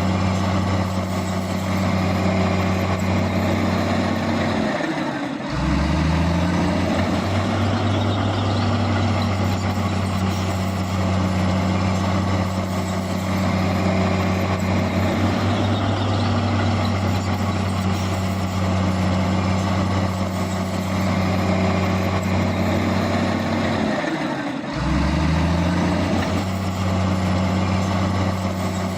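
Heavy diesel engine of earthmoving machinery running steadily. Twice, about twenty seconds apart, its pitch drops away and then climbs back up.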